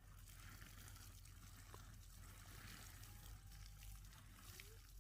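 Near silence: a faint steady hiss of running water.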